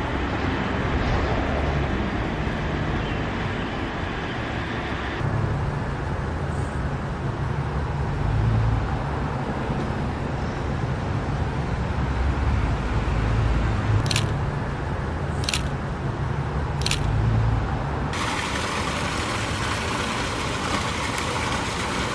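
City street traffic: a steady rumble of passing cars and other road vehicles, changing abruptly twice as one stretch of street sound gives way to another. Three short high hisses come between two-thirds and three-quarters of the way through.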